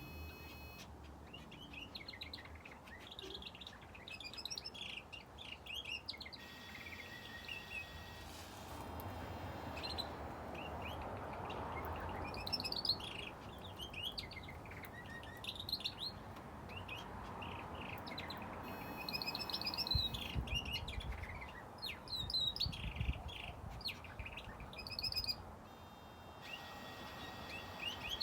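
Aviary finches and a canary chirping and twittering, with many short calls overlapping throughout.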